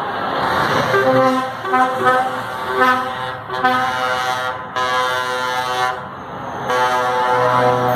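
Truck air horns blasting in a run of short and long honks, several tones sounding together and changing pitch from blast to blast, over the rumble of truck engines.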